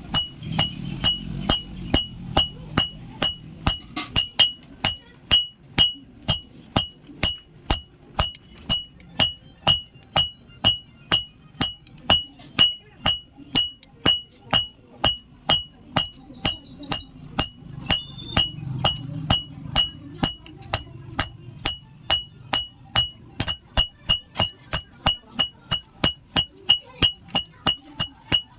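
Blacksmith's hammer striking iron on an anvil in a steady rhythm, about two to three blows a second. Each blow leaves a short, high metallic ring: the forging of a pair of tongs.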